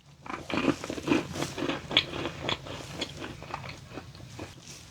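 A person biting and chewing a lemon cookie, with irregular crunching and crackling from the mouth.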